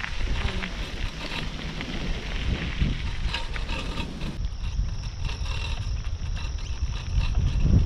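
Wind buffeting the microphone: a steady low rumble with scattered faint clicks.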